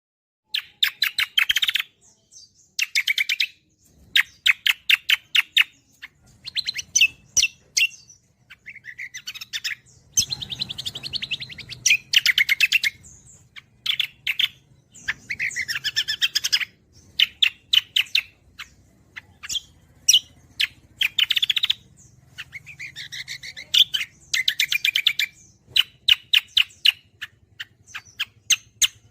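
Cucak kombo songbird singing: rapid chattering phrases of fast-repeated notes, each phrase lasting about a second with short pauses between, over a faint low hum.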